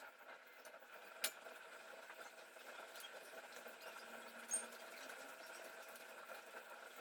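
Faint steady hum with two sharp light clicks, one about a second in and a louder one about four and a half seconds in.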